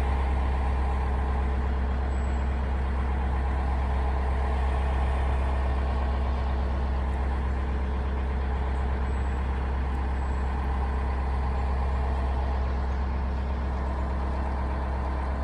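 Narrowboat diesel engine running steadily at a constant low speed, a deep even hum with a steady drone over it.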